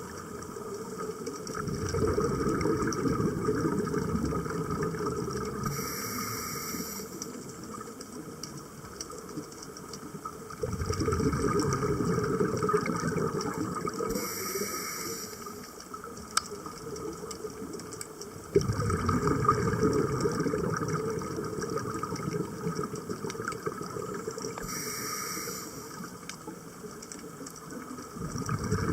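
Scuba diver breathing through a regulator underwater. A long burst of exhaled bubbles comes four times, about every eight to nine seconds, each rising suddenly and fading. A short hiss of inhaled air from the regulator comes between them.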